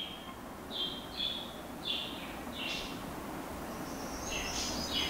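A small bird chirping: short, high chirps repeating every half second to a second, with denser, higher chirping near the end, over a faint steady background hum.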